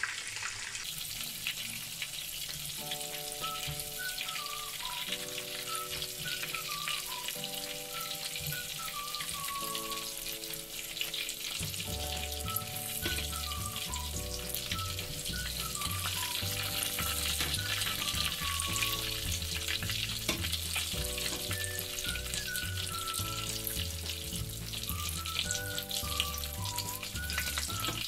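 Battered mushrooms deep-frying in hot oil in a pan, a steady sizzle. Background music with chords and a melody plays over it from about three seconds in, and a bass line joins near the middle.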